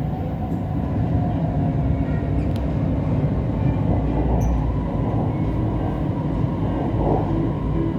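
Siemens Inspiro metro train running, heard from inside the carriage: a steady low rumble of wheels and running gear as the train approaches a station. A faint tone comes in near the end.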